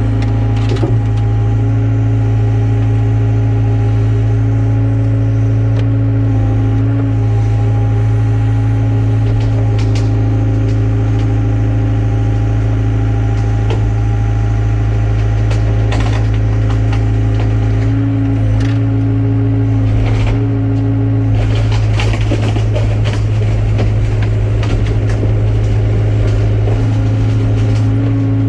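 Excavator diesel engine running steadily, with scattered knocks and a stretch of rough scraping and crunching in the second half.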